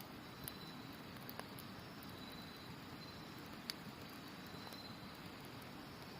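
Campfire crackling, with a few sharp pops, the loudest a little before the middle, over the steady rush of a river. Autumn insects give faint high trills that come and go.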